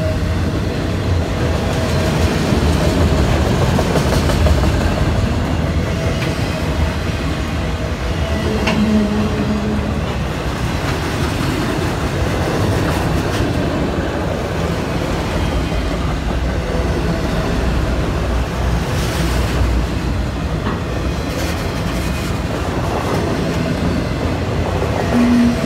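Freight train of autorack cars rolling past close by: a steady, loud rumble and clatter of steel wheels on the rails.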